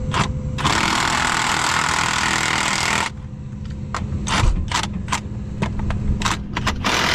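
Impact wrench running on flange bolts: one long burst of about two and a half seconds, then a string of short quick bursts. A machine engine runs steadily underneath.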